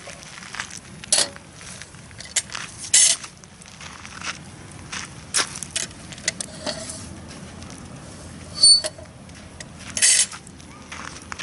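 Campfire wood crackling and snapping in irregular sharp pops, with a short metallic clink near the end.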